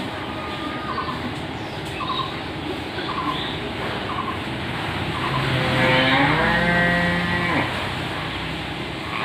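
Parrot calling: short chirps about once a second, then a loud, long drawn-out call of about two seconds that wavers in pitch and drops away at its end.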